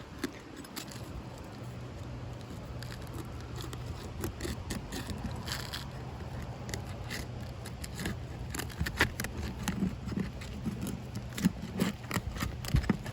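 Asphalt roof shingles being pried up and pulled loose with a bar: irregular scraping, crackling and sharp clicks as the sealed tabs tear free, over a steady low hum.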